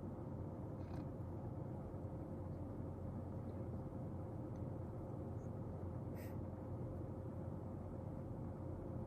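Steady low room hum with a faint constant tone, and two small light clicks, about one second and six seconds in, the second the clearer.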